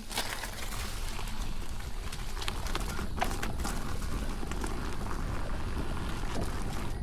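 Nosfet Apex electric unicycle rolling over a rough dirt trail: its tyre crackles and clatters on gravel, twigs and roots in scattered irregular clicks and knocks, over a steady low rumble.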